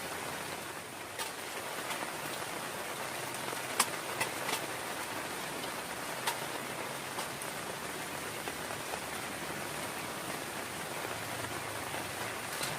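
Steady rain falling, with sharp louder drop strikes now and then, the strongest about four seconds in.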